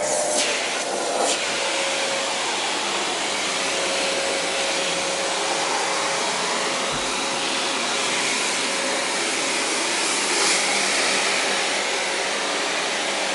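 Vacuum cleaner running steadily, with a faint hum under the rush of air, used on a cat's fur.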